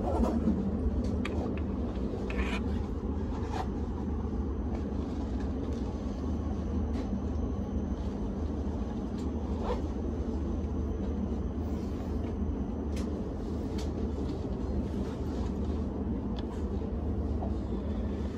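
Tohoku Shinkansen train running, heard from inside the passenger car: a steady low rumble with a few light clicks.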